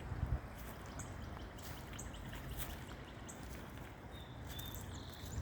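Steady rush of flowing creek water, with small birds chirping: short high calls repeated throughout.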